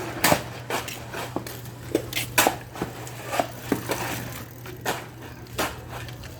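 Irregular clicks and knocks, several a second, over a steady low hum.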